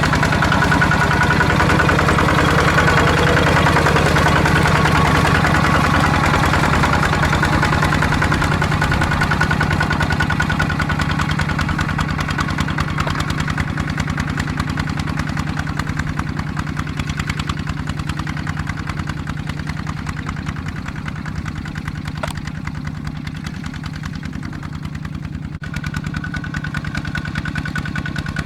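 ZT 155 tractor's single-cylinder diesel engine running steadily with a fast, even beat, growing gradually quieter over the second half.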